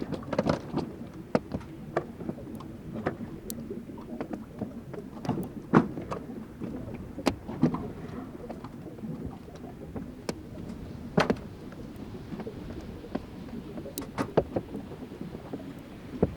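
Fláajökull glacier ice breaking and melting: irregular sharp clicks, pops and cracks over a continuous low rumble, with louder cracks about six and eleven seconds in.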